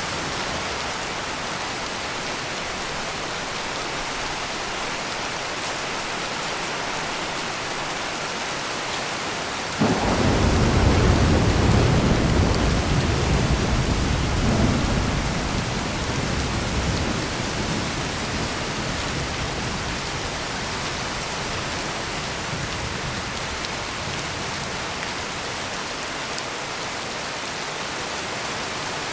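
Heavy rain pouring steadily. About a third of the way in, a thunderclap starts suddenly and rumbles low for several seconds before dying away.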